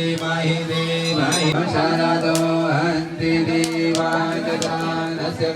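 Hindu devotional chanting over a steady drone, with sharp strikes about once a second.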